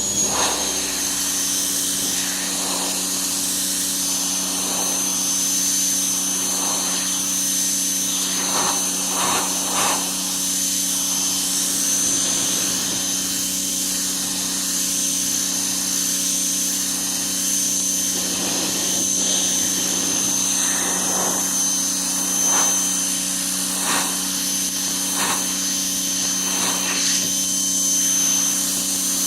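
Ryobi 1700 PSI electric pressure washer running steadily: a motor and pump hum with a thin high whine over the hiss of the water jet spraying the deck boards. The spray noise swells briefly every second or two as the jet is swept across the wood.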